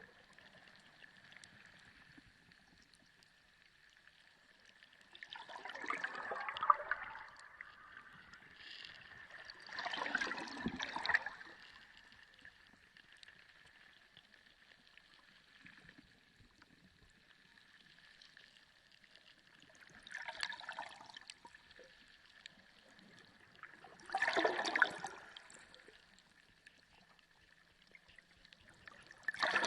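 Sea water heard underwater, gurgling and sloshing in five separate surges a few seconds apart, each lasting a second or two. A faint steady high tone sounds throughout.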